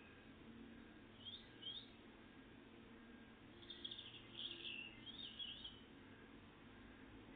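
Faint songbird song: two short high notes about a second in, then a longer phrase of quick falling notes from about three and a half to six seconds in.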